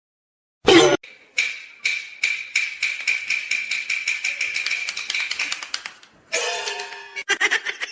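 A sudden loud knock, then rapid even tapping, about five taps a second, each with a ringing tone, for several seconds. A short pitched call or note follows near the end.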